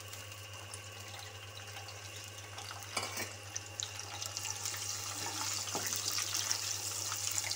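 Chopped garlic and cumin seeds sizzling in hot oil in a wok, the sizzle growing louder, with a few knocks of a wooden spatula stirring against the pan.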